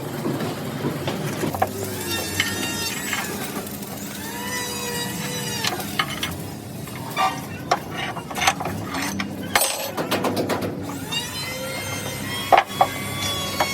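Metal fabrication workshop noise: sharp knocks and clicks on metal, bunched in the middle, among several drawn-out pitched tones that bend in pitch, over a steady noisy background.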